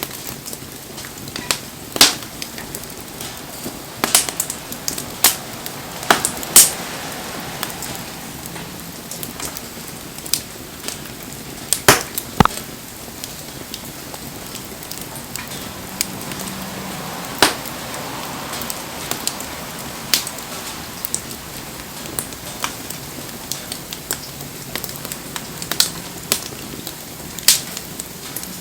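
Wood campfire crackling, with sharp irregular pops of burning wood, a few much louder than the rest, over the steady hiss of rain falling.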